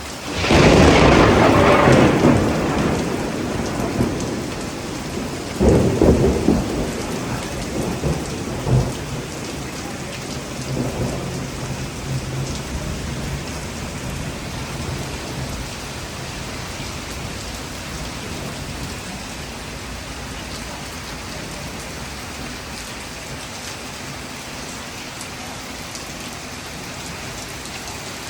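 A thunderclap breaks at the start, sharp and loud, then rolls on in rumbles that swell again about six and eight seconds in and fade away over the next several seconds. Steady rain falls throughout.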